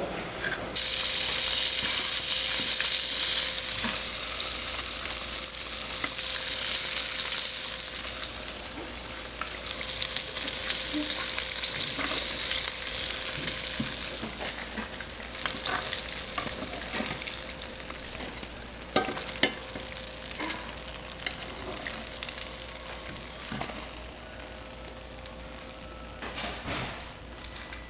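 Flour-battered oyster mushrooms frying in shallow oil in a skillet: a steady loud sizzle for about the first half, then dying down to a quieter crackle with scattered clicks. A faint steady hum runs underneath.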